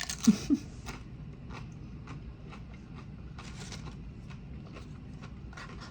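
Faint close-up eating sounds: chewing and small mouth clicks, with a short louder burst of noise and a brief low sound in the first second.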